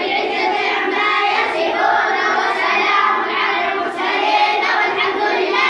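A group of children chanting together in unison, many voices at once without a break.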